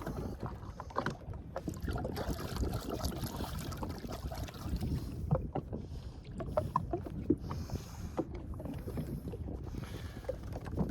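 Wind rumbling on the microphone aboard a Sea-Doo Fish Pro personal watercraft on choppy water, with scattered small knocks and splashes against the hull.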